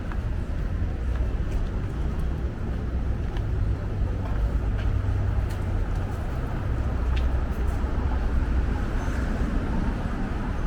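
City street ambience: a steady low rumble of traffic under a general hum, with faint scattered clicks.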